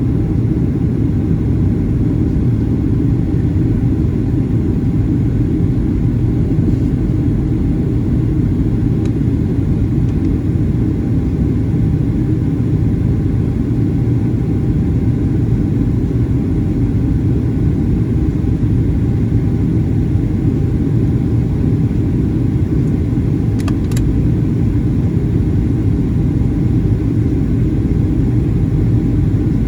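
Boeing 737-800 in flight: a steady low rumble of its CFM56 engines and the airflow, with a faint click near the end.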